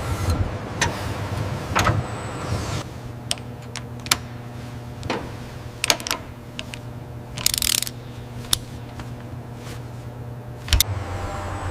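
A steady low machine hum with scattered sharp clicks and knocks, and a short hiss about seven and a half seconds in.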